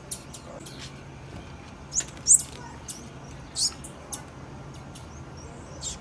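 Female blue-black grassquit (tiziu) giving a series of short, high chip calls at irregular intervals; the loudest comes a little after two seconds in.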